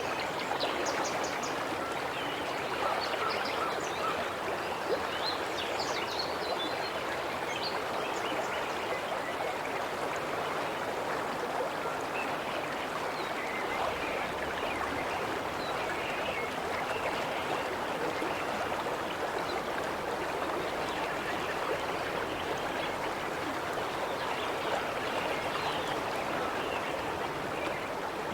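River water flowing with a steady rush, with a few short bird chirps in the first several seconds.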